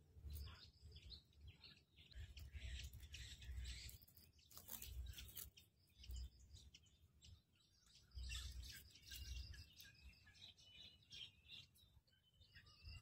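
Near silence: faint outdoor ambience with a few faint, high bird chirps and soft low rumbles now and then.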